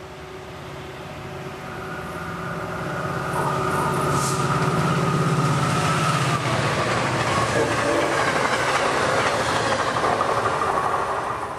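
MARC commuter train with an MP36 diesel locomotive running through at speed: the diesel engine's drone grows louder over the first few seconds as it closes in, then the rumble and wheel clatter of the bilevel coaches going by, dropping away at the end.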